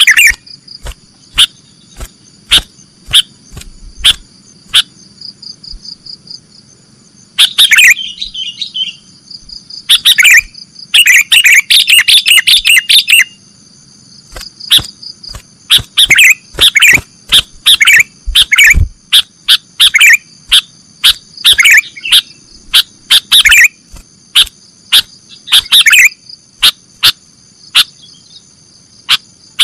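Sooty-headed bulbul (kutilang) calling: a run of sharp, loud chirps broken by several bursts of rapid chattering notes, over a steady high-pitched hum.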